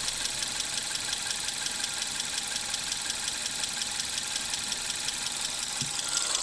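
Engine idling with a steady, rapid, even knocking, several knocks a second.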